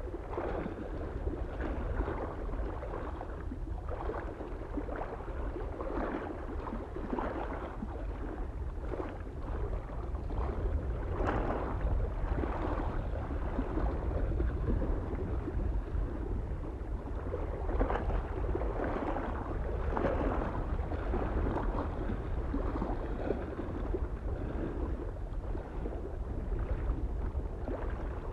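Small waves lapping and splashing against a lake shore, one every second or two, over a steady low rumble of wind on the microphone.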